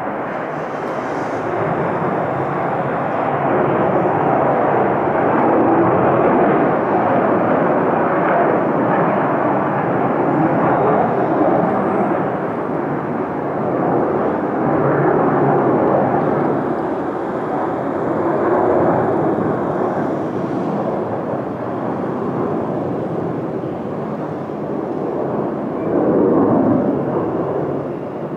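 US military fighter jet taking off, its jet engines a loud, continuous roar that swells and eases, loudest shortly before it begins to fade.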